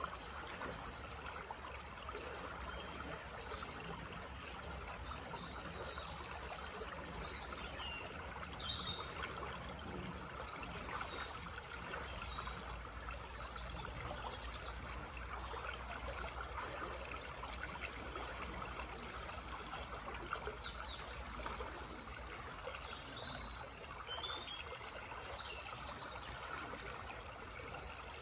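Small forest stream trickling and burbling steadily over stones, with songbirds chirping briefly now and then through it.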